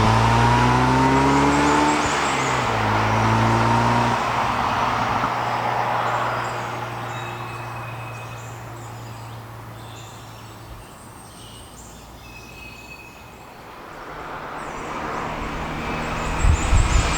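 Saturn Sky Redline's turbocharged 2.0-litre four-cylinder pulling with rising revs, then dropping in pitch about two seconds in and running steadily. The engine and road noise then fade away to a quiet stretch, and both build up again near the end, where a few low thumps come through.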